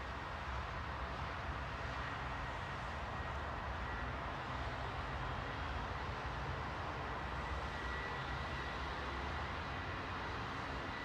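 Steady outdoor background rumble of distant engine noise, with a faint thin high tone clearest a little past the middle.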